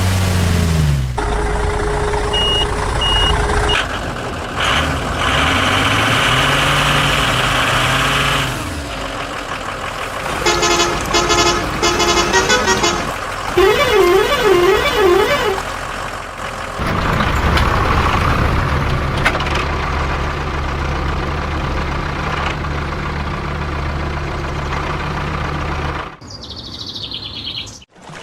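Heavy vehicle engines running, with horns sounding and a wavering tone about two-thirds of the way through; the sound changes abruptly several times.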